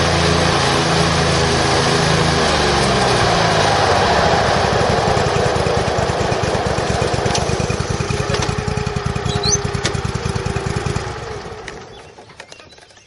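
Kohler Command 27 hp engine of an Exmark Lazer Z zero-turn mower running. Its note changes about three seconds in, and the sound dies away near the end.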